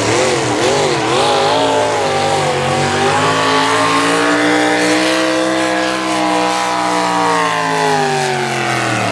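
Naturally aspirated pulling truck's engine at full throttle, hauling the sled down the track. Its pitch wavers rapidly up and down for the first two seconds, then climbs and slowly sags as the load builds, dropping sharply near the end.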